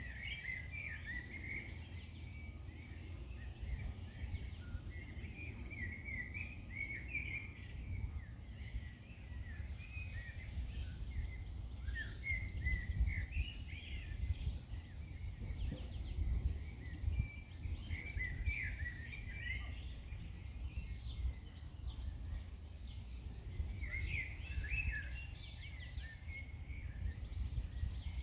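Small songbirds chirping and trilling in bursts every few seconds, over a steady low rumble.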